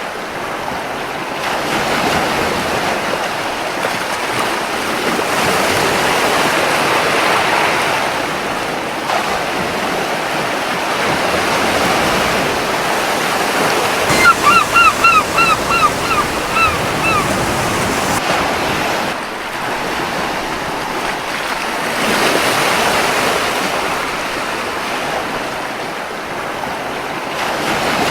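Surf washing onto a beach, swelling and easing every few seconds. About halfway through, a gull gives a quick run of about eight short calls.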